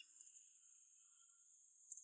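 Near silence, with only a faint steady high-pitched hiss.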